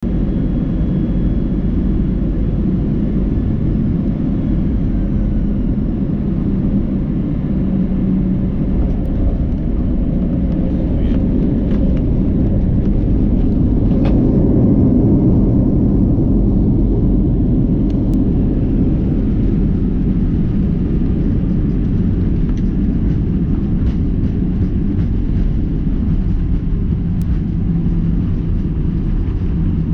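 Cabin noise aboard an Airbus A319: a steady, loud low rumble of the engines and airflow, swelling a little midway, with a few faint knocks.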